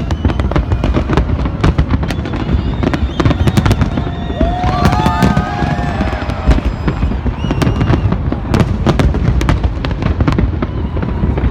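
Fireworks display: a rapid, unbroken run of sharp bangs from shells bursting, over a continuous low rumble. A cluster of short whistling tones rises over it about halfway through.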